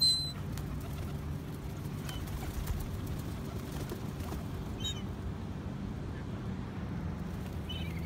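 A few short, high bird calls over a steady low background hum: one sharp call at the very start, then fainter ones about two, five and eight seconds in.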